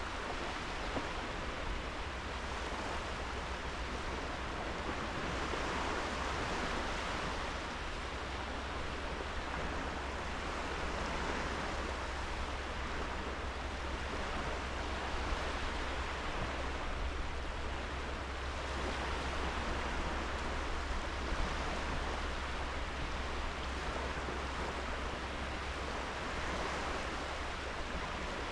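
Sea waves washing onto a sandy beach, a continuous surf that swells and eases every five or six seconds.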